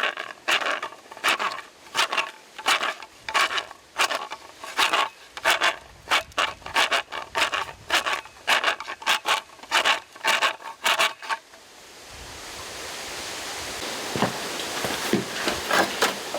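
Repeated scraping strokes of a rod worked back and forth inside a hollow bamboo culm to break out its nodes, about one and a half to two strokes a second. The strokes stop after about eleven seconds and a steady rushing noise takes over.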